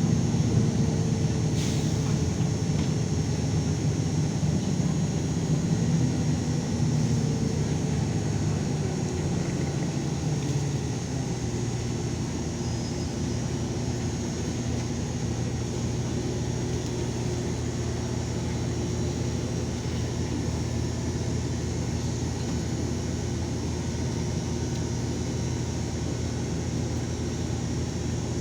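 LiAZ 5292 city bus running, heard from inside the cabin: the engine note falls over about the first ten seconds as the bus slows, then holds a steady, lower drone. A single sharp click sounds near the start.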